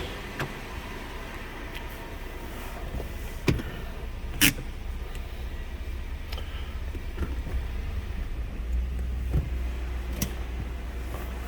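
Lexus LX470's 4.7-litre V8 idling in reverse, a steady low rumble that grows a little stronger near the end, with no exhaust-manifold tick, a sign the manifolds are not cracked or leaking. A sharp click about four and a half seconds in is the loudest sound, with a fainter one a second before it.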